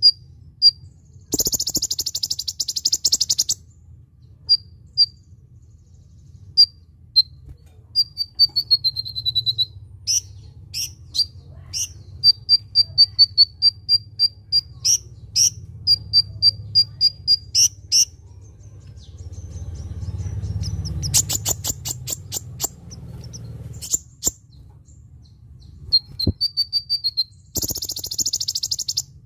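Kolibri ninja sunbird calling: sharp high chips and quick runs of notes, a falling trill, and two buzzy, rattling bursts of about two seconds each, one near the start and one near the end.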